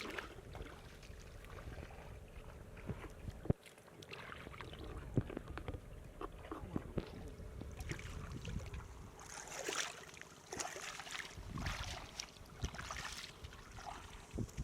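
Field water sloshing and splashing, with scattered knocks and clicks and a few louder splashes past the middle.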